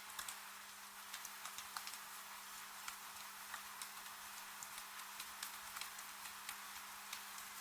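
Steady rain hiss with irregular sharp ticks of drops landing close by, over a faint steady low hum.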